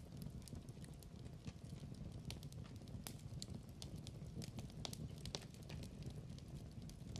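Wood fire burning in a fireplace: a low steady rumble of flames with frequent small crackles and snaps, a few sharper pops among them.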